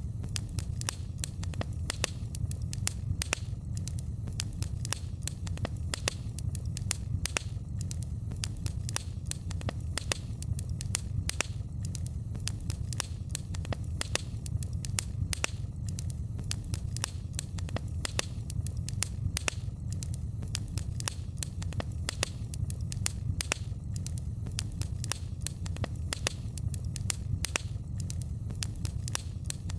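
Wood fire crackling in a fireplace: frequent sharp pops and snaps, several a second, over a steady low rumble of the flames.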